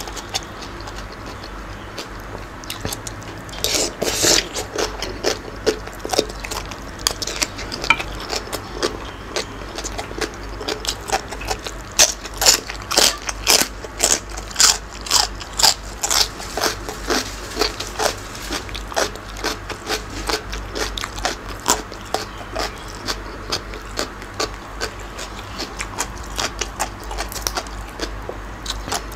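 Close-up chewing and lip-smacking of a man eating spicy squid salad: a long run of quick wet clicks and smacks, most frequent and loudest from about twelve to eighteen seconds in.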